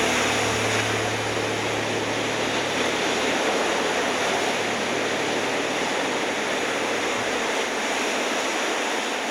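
Ocean surf: a steady, continuous wash of breaking waves, with a low steady hum underneath that stops about seven seconds in.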